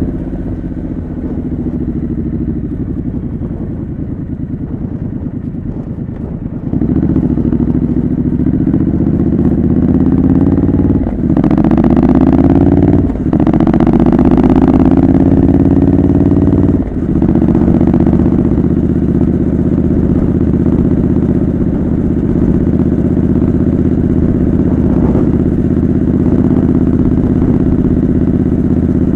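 Triumph Scrambler 900's 900 cc parallel twin running through a home-made exhaust while riding: quieter at first, then pulling harder from about seven seconds in, rising in pitch with three brief drops as it shifts up, then cruising steadily. Wind noise on the microphone.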